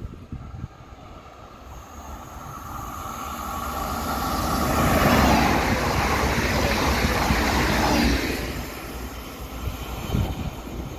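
Electric regional passenger train passing at speed on the near track: its sound builds over about three seconds, stays loud for a few seconds as the cars go by, then falls away quickly. Wind buffets the microphone underneath.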